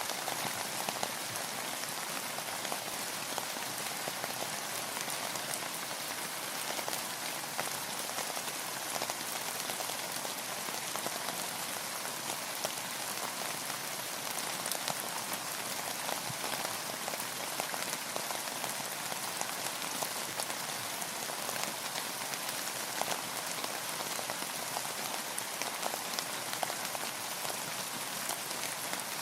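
Steady rain falling, a dense even patter of many small drops hitting a surface.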